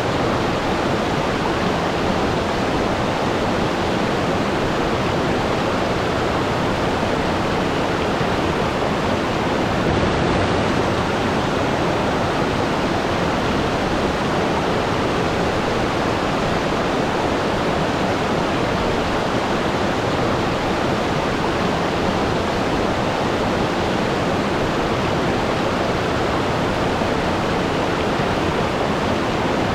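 Waterfall: water falling in a steady, unbroken rush, with no birds or other events standing out.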